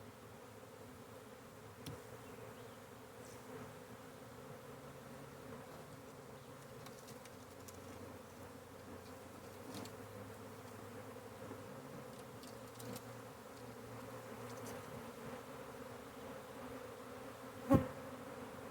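Honey bee swarm buzzing, a steady hum that holds throughout. A single sharp knock sounds near the end.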